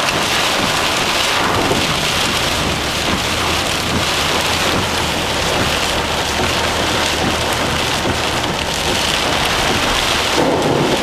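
Heavy thunderstorm rain pelting down: a dense, steady hiss of countless small drop hits.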